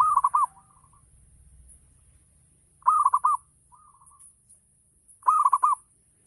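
Zebra dove (perkutut) cooing: three song phrases about two and a half seconds apart, each a quick run of three or four rising-and-falling coos followed by a fainter trailing note.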